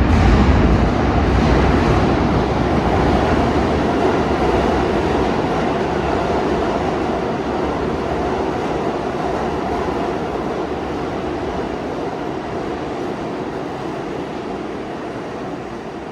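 New York City subway train running on the tracks, with a steady rumble and wheel clatter that fade slowly as it moves away.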